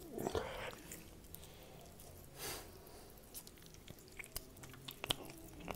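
Faint wet chewing and biting on raw ribeye steak, the teeth tearing at a tough strip of fat and sinew, with scattered small clicks and smacks.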